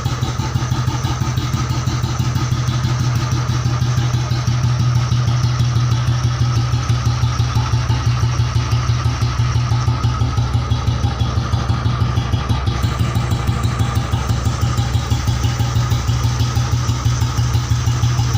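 1995 Royal Enfield single-cylinder engine idling through a dual exhaust, with a steady, even beat of exhaust pulses.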